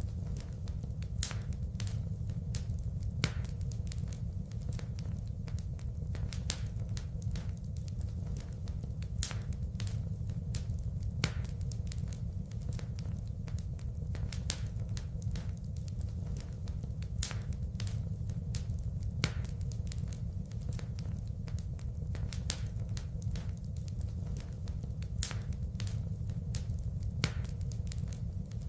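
Wood fire crackling in a fireplace: irregular sharp snaps and pops, a few louder than the rest, over a steady low rumble.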